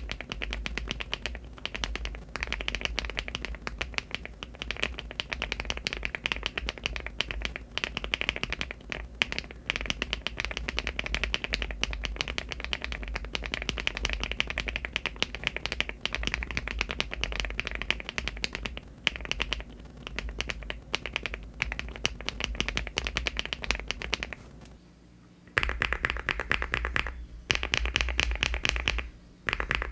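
Fast, continuous typing on a mechanical keyboard with HMX Garnet switches (50 g) under Cherry-profile keycaps in an aluminium LEOBOG Hi75 case. The typing stops for about a second near the end, then resumes on the next switch, HMX Macchiato.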